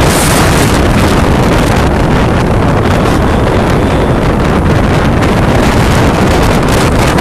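Storm wind buffeting the microphone: a loud, continuous rumble and rush, with a brief hiss just after the start.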